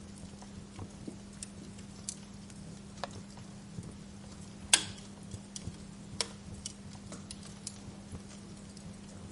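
Wood fire crackling in a fireplace: irregular sharp pops and snaps, one louder pop about halfway through, over a steady low hum.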